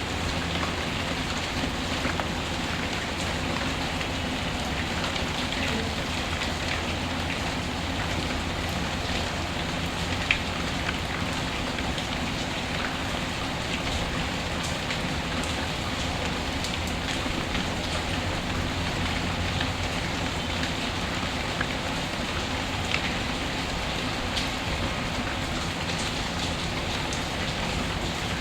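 Steady rain with a wood fire crackling, a few sharper pops standing out now and then.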